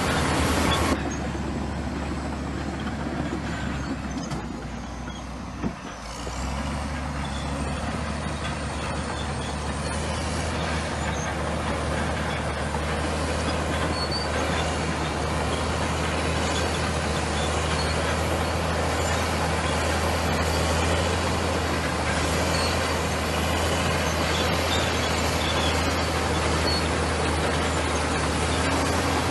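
Komatsu bulldozer's diesel engine running, dropping off about a second in and easing lower for a few seconds. A single sharp knock comes just before the sound picks up again, and the engine then runs steadily.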